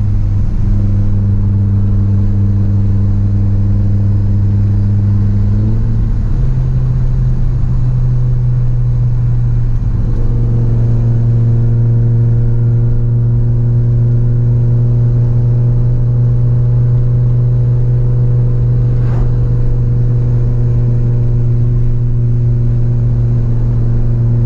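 Audi UrS4's turbocharged 2.2-litre 20-valve five-cylinder (AAN) engine droning steadily under way, heard from inside the cabin. Its pitch steps up a little about six seconds in, and the sound grows fuller around ten seconds in.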